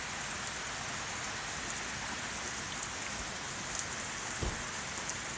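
Steady rain falling: a continuous hiss with scattered drops ticking on nearby surfaces, during a heavy storm that is flooding the ground.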